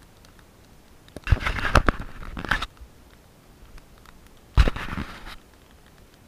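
Two bursts of crinkling, scraping handling noise with sharp clicks, the first about a second and a half long, the second shorter, near the end.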